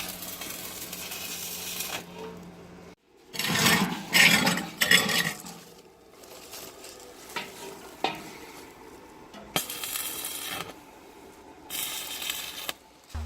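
Electric arc welding sizzling and crackling in several separate bursts that start and stop abruptly, with a few sharp metallic clicks between them.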